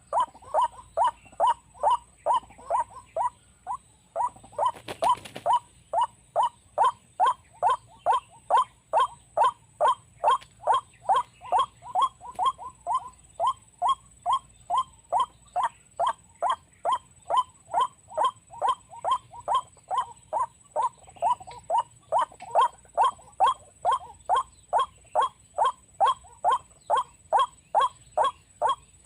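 White-breasted waterhen calls, a short downward-sliding note repeated steadily about two to three times a second, with a brief pause about three seconds in.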